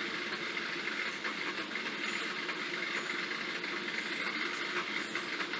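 Steady mechanical hum from a running machine, even and unchanging, with a faint high whine over it.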